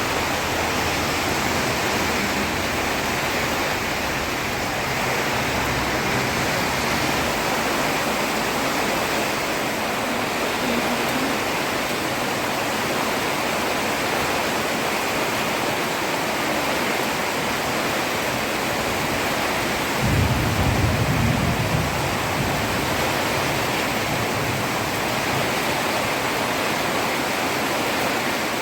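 Heavy rain falling steadily on a road, a dense even hiss, with a short low rumble about two-thirds of the way through.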